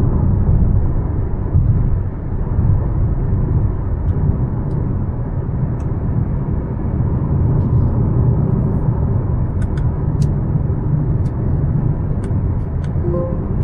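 Mazda CX-5 with a 2.5 e-SKYACTIV G engine on the move: a steady low rumble of road and engine noise at an even pitch, with a few faint clicks and a brief short tone near the end.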